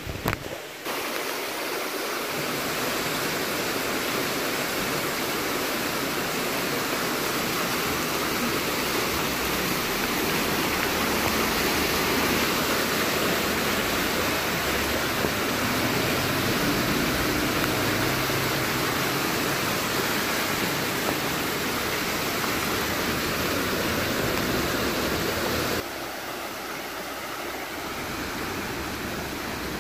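Floodwater rushing steadily, an even noise with no let-up. The level drops abruptly about 26 seconds in.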